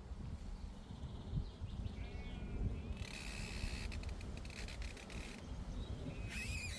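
Outdoor meadow ambience: small birds chirping in short calls, about two seconds in and again near the end, over a low wind rumble on the microphone, with spells of rapid crisp clicking.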